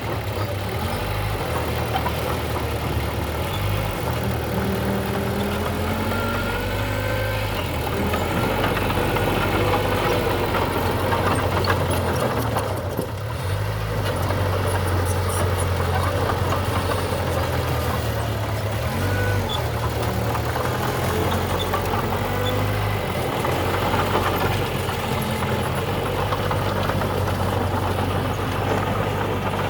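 Heavy diesel engine of earthmoving machinery running steadily, its low note shifting a little as the load changes, with a brief drop about halfway through.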